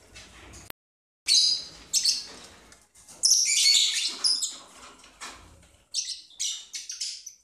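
Lovebirds chattering in bursts of shrill, rapid chirps after a short break about a second in, loudest about halfway through.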